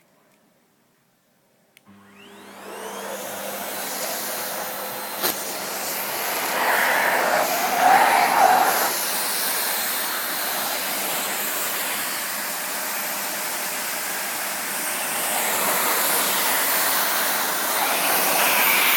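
Vacuum cleaner switched on about two seconds in, its motor spinning up with a rising whine, then running steadily, growing louder at times as it is moved around.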